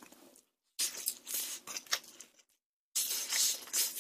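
Close-up chewing of crispy spicy dakgangjeong (Korean glazed fried chicken bites): crunchy, noisy mouthfuls in two stretches, with a short pause just before the last second.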